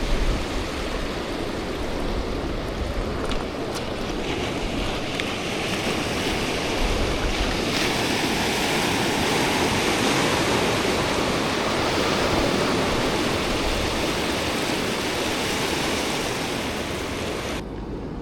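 Sea waves washing onto the shore, a continuous rush that swells toward the middle and eases off near the end.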